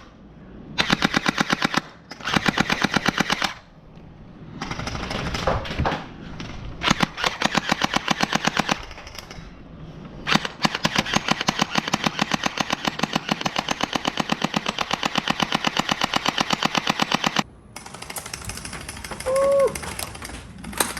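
Gel blaster firing on full auto: several rapid bursts of evenly spaced shots, the last one running about seven seconds, then it stops near the end.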